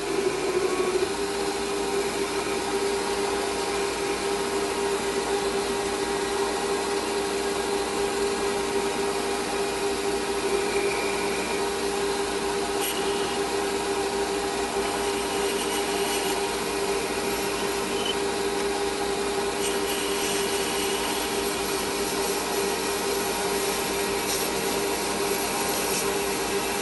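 Metal lathe running at a steady speed with a constant motor hum while a tool bores through a small chimney to 19 mm, with some scraping cutting noise.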